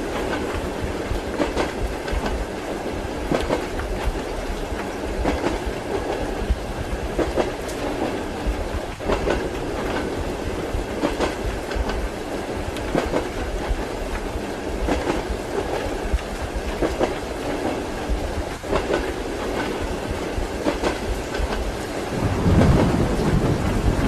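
Train carriage rolling along, its wheels clacking over rail joints about every two seconds over a steady rumble. A deep rumble of thunder swells in near the end.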